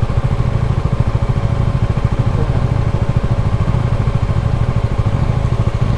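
Bajaj Dominar 250 motorcycle's single-cylinder engine running steadily while riding, a low rumble with a rapid, even pulse that neither rises nor falls.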